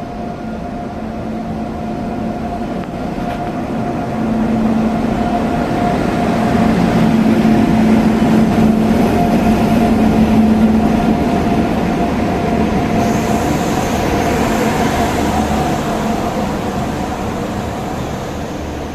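Passenger train pulling into a station platform, its locomotive and coaches rolling past with a steady rumble and hum. It gets louder toward the middle and then eases off, and a faint high-pitched tone comes in about two-thirds of the way through.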